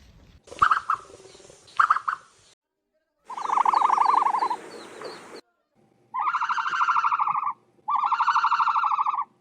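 A bird's calls in several short spliced clips: two brief calls, then a longer trilling call with faint high chirps over it, then two trilling calls of about a second and a half each with a short gap between them.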